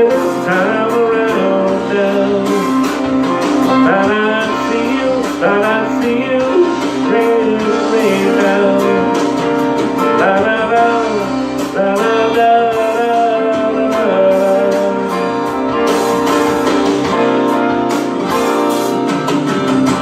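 Guitar music as the song's instrumental outro: strummed and plucked guitar chords under a melody line that slides and bends between notes.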